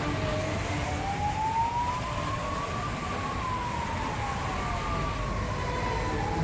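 Emergency vehicle siren wailing in a slow rise and fall, sweeping up over about three seconds and back down, then starting to rise again, over a steady low rumble.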